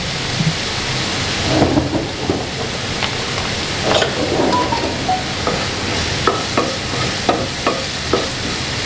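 Crushed garlic and shallots with whole peppercorns and cumin seeds frying in olive oil in a non-stick frying pan on low heat: a steady sizzling hiss with short sharp crackles, more frequent in the second half, and a wooden spatula stirring the pan near the end.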